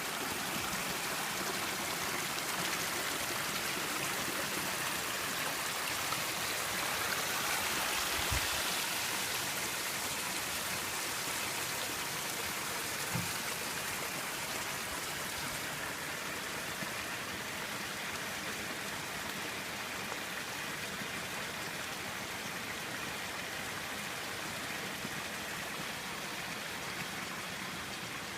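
Shallow stream or small waterfall water running steadily, with two brief low thumps, one about eight seconds in and one about thirteen seconds in.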